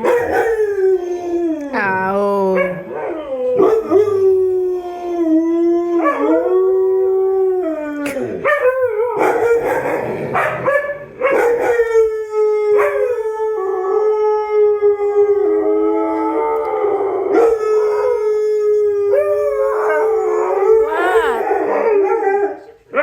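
Dogs howling together in long, wavering notes that slide up and down in pitch, at times two voices at once, with brief breaks between howls.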